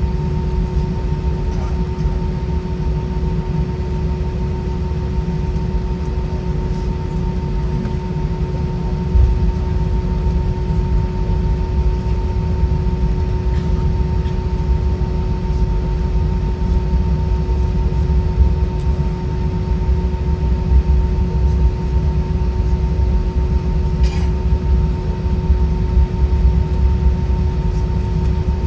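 Airliner cabin noise inside an Airbus A320 with IAE V2500 engines: a steady low rumble with two steady hums, growing slightly louder about nine seconds in.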